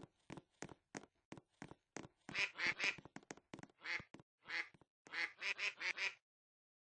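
A bird calling in short, harsh notes: fainter quick clicks at first, then from about two seconds in louder calls in quick runs, a run of three, a couple of single calls, then a run of five, stopping about six seconds in.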